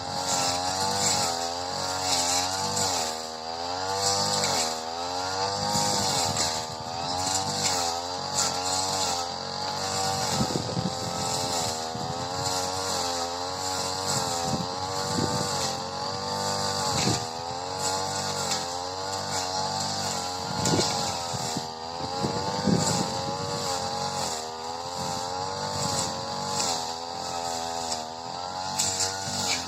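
Supra SPR328 two-stroke brush cutter running at high revs while cutting tall, dense grass, its pitch wavering constantly and dipping sharply again and again as the blade bogs in the thick growth, then recovering.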